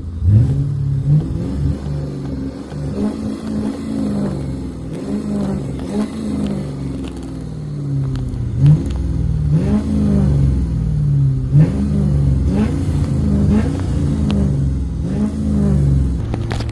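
A car's V8 engine being revved again and again, its pitch climbing sharply and dropping back roughly every second.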